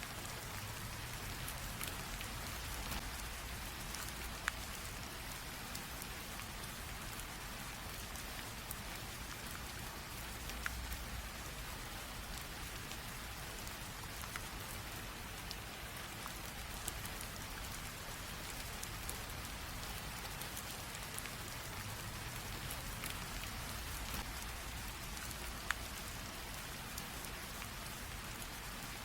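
Light rain falling steadily as an even hiss, with scattered sharp drip ticks of individual drops on a surface.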